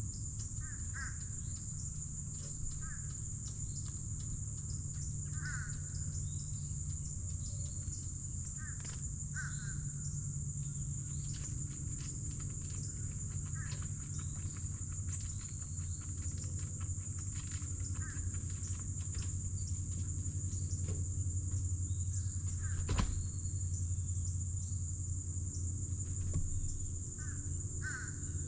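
Steady high-pitched insect chorus, with short bird calls every few seconds over a low steady rumble. Scattered light taps and clicks, one sharper knock late on.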